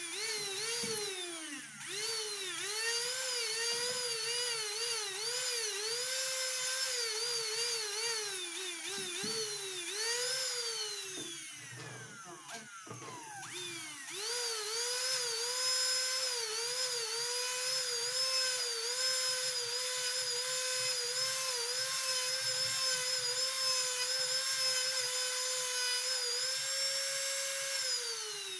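Small high-speed rotary tool, such as a jeweller's micromotor or handheld drill, whining as it runs, its pitch dipping again and again as the bit is pressed to the work and recovering. About twelve seconds in it slows nearly to a stop, then spins back up and holds a steady pitch, dipping once more near the end.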